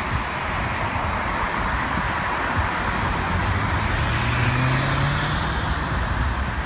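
Boeing 777-300ER's GE90-115B jet engines during takeoff: a steady, broad rushing roar, with a low hum that rises a little in pitch about two-thirds of the way through.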